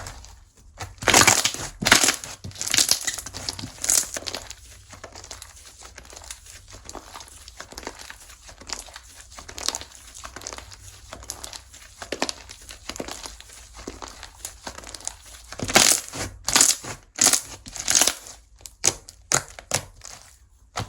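Slime being squeezed, pressed and stretched by hand, giving many quick crackles and clicks. There are louder bursts in the first few seconds and again near the end, with softer crackling between.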